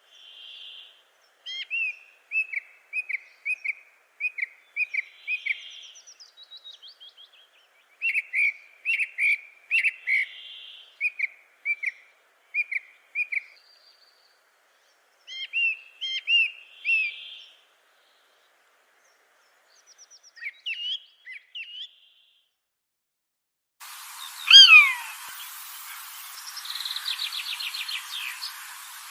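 Birds calling: runs of short, quick chirps repeated several times a second, with softer whistled notes between, in separate bursts broken by dead silence. About three-quarters of the way through, a loud falling call sounds over a steady hiss.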